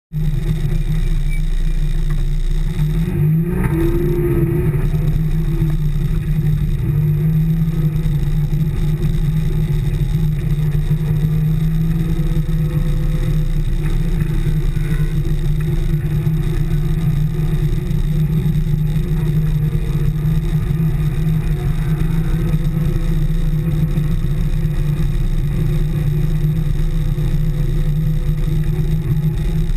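Race car's engine running at low revs, heard from inside the stripped-out cockpit, with a short rev rising in pitch about three seconds in, then a steady drone.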